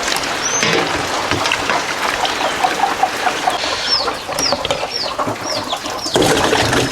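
Young chicks peeping in short, high, falling chirps: one near the start, then about two a second through the second half. Steady rain runs underneath.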